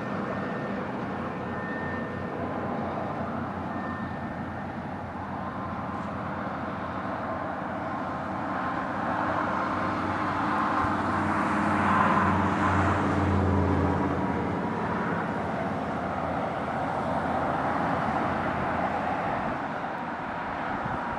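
Steady road traffic noise from passing motor vehicles, with one heavier vehicle's engine growing louder as it passes about twelve seconds in and then fading away.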